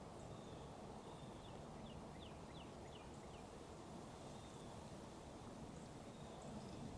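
A small bird gives a quick series of about six short descending chirps about two seconds in, over faint, steady outdoor background noise.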